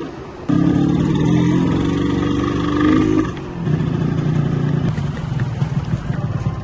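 Yamaha 125ZR's single-cylinder two-stroke engine running at steady revs. It cuts in suddenly about half a second in, drops away briefly just after three seconds, then runs on more roughly.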